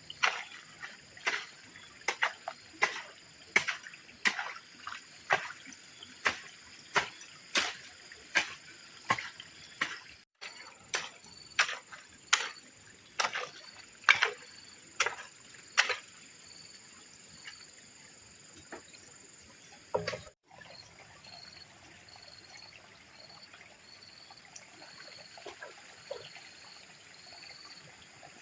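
Repeated strikes of a hand tool, about one every three-quarters of a second, for roughly the first half. The blows then stop, leaving water trickling with insects calling.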